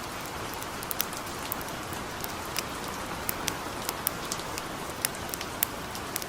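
Gentle steady rain hiss, with sharp irregular crackles and pops from a wood campfire a few times a second.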